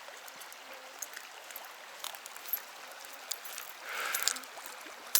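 Scattered small metal clicks and clinks as a spinner lure with a treble hook is worked out of a pike's gills, over a steady rush of flowing river water, with a short rustling scrape about four seconds in.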